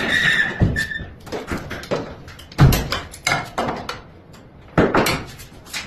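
Power feeder cart being moved and handled: a short high squeal at the start, then heavy thumps and knocks with smaller clatter, about three big impacts in all.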